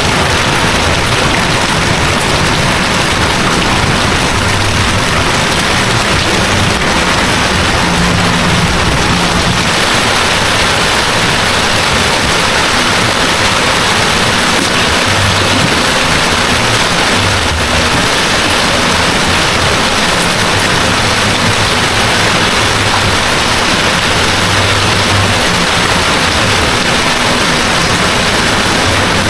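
Heavy rain falling steadily in a downpour, a constant loud hiss, with a low rumble that comes and goes underneath.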